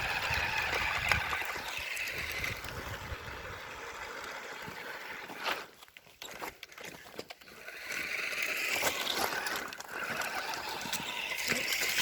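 Radio-controlled car running through floodwater: a steady motor whine mixed with water noise, dropping away for about two seconds midway and then coming back.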